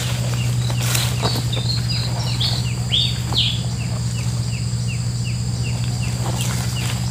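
A bird repeating short falling chirps, about three a second, with a few louder, higher falling notes in the middle. Under it runs a steady low hum, and there is a brief rustle about a second in as someone walks through undergrowth.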